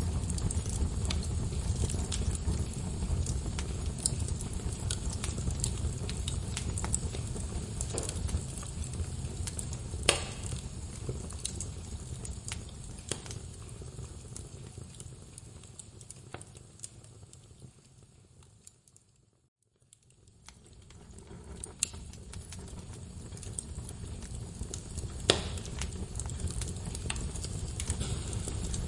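Wood fire burning in a fireplace: a steady low rumble of flames with scattered crackles and a few sharper snaps of burning logs. About two-thirds of the way through the sound fades almost to silence and then swells back.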